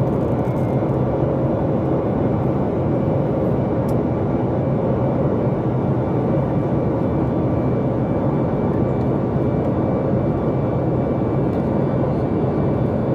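Steady cabin noise of a Boeing 737 MAX 8 in flight: an even rumble and rush from its CFM LEAP-1B engines and the airflow over the fuselage, unchanging throughout, with a few faint steady tones.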